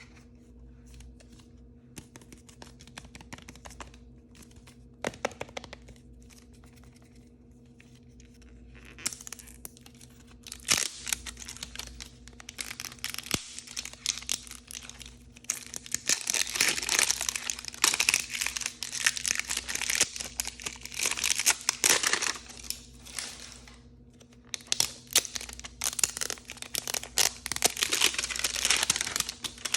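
Crinkly blind-bag packaging being handled and torn open. A few light ticks and rustles come first, then dense crinkling and crackling from about nine seconds in, loudest in the second half.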